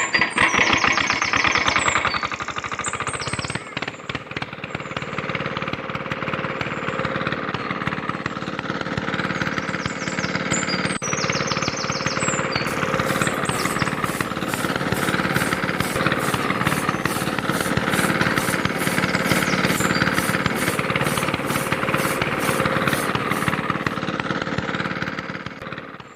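Small motor running with a fast, even rattle.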